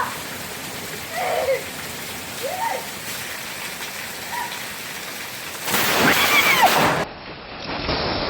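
Steady hiss of heavy rain, with faint voices calling out now and then. The hiss gets louder about six seconds in, then changes abruptly at a cut.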